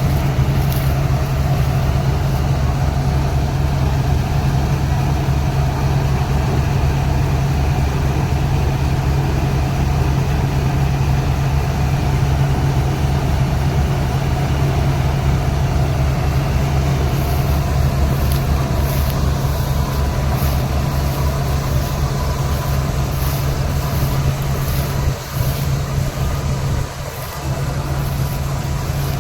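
Kartar 4000 combine harvester running: a steady, loud, low engine drone with an even pulse, dipping briefly twice near the end.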